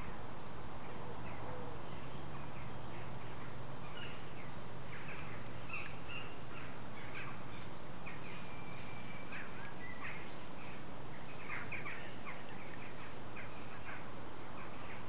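Small birds chirping in short calls over a steady background hiss; the calls begin about four seconds in and come most densely in the second half, with one brief held whistle-like note in the middle.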